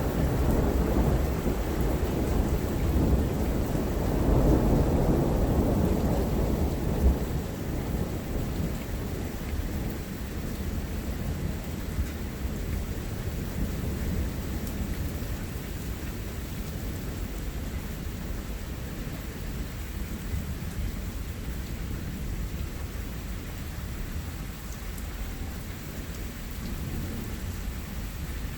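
Steady rain falling with a long rolling rumble of thunder that swells over the first few seconds and dies away about eight seconds in, leaving the rain alone.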